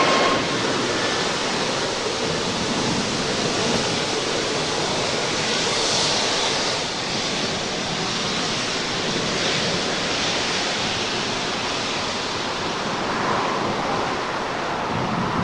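Steady, even rushing roar of jet aircraft engines across an airfield, with no clear whine or pitch, swelling slightly about six seconds in.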